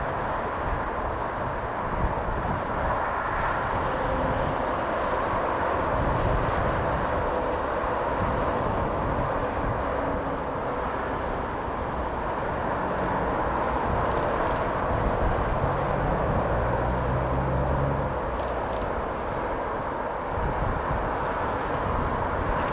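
Steam-hauled train running, a steady rumble.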